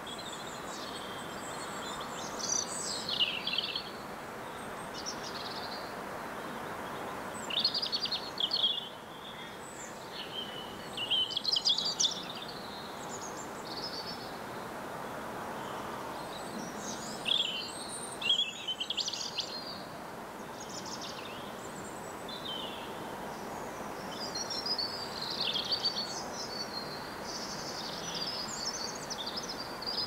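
Small garden birds chirping and calling in scattered short bursts, more continuous in the last few seconds, over a steady outdoor background hiss.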